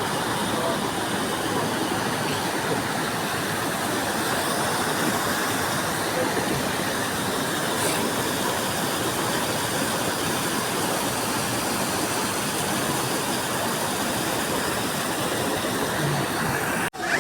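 Multnomah Falls, a steady, even rush of falling water that holds at one level throughout.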